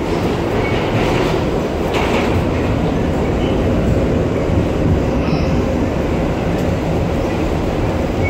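R62A subway train heard from inside the car while running: a steady rumble of wheels on the rails, with a few clacks as the wheels pass rail joints.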